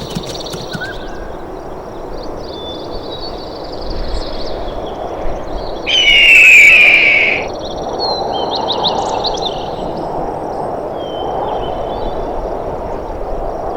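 Wild forest ambience: a steady background hiss with scattered high bird chirps and trills. About six seconds in comes one loud, harsh call lasting about a second and a half, dropping slightly in pitch, which is the loudest sound.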